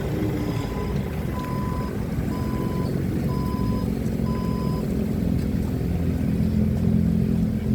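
Forklift diesel engine running with its reversing alarm beeping about once a second; the beeping stops about five seconds in, and the engine grows a little louder after that.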